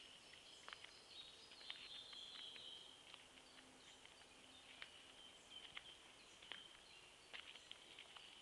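Faint summer forest ambience: small birds chirping, with a steady high-pitched trill running underneath and a longer trilling phrase about a second in.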